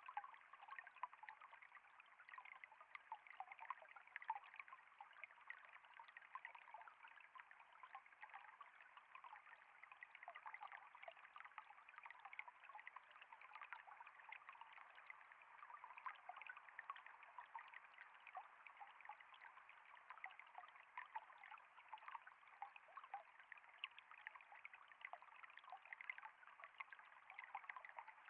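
Flowing water trickling steadily, a faint continuous babble of many small splashes and drips.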